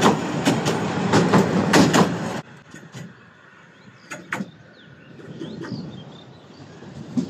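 Passenger train carriages rolling past close by, steel wheels clacking in pairs over the rail joints. About two and a half seconds in the train sound cuts off abruptly, leaving quiet outdoor ambience with a few light clicks and taps as the flattened iron strip is picked up off the ballast stones.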